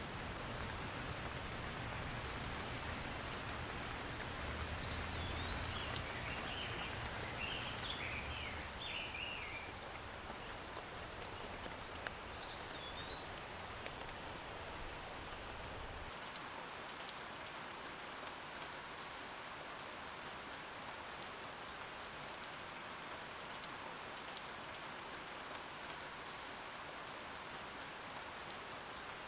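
Steady rain falling, with fine drips and patter. A bird chirps a few times in the first half, and a low rumble underneath stops about halfway through.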